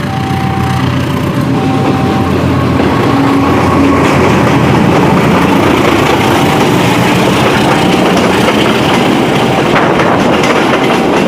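Train passing close by, its rolling noise building over the first few seconds and then running steady and loud.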